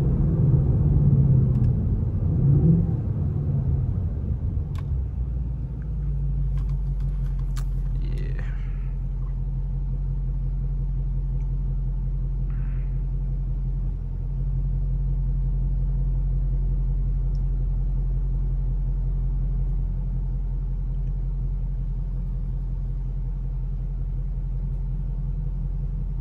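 Stock Ford Mustang GT's 5.0 L Coyote V8 running through its factory exhaust, louder and shifting in pitch for the first few seconds, then settling into a steady low hum from about six seconds in.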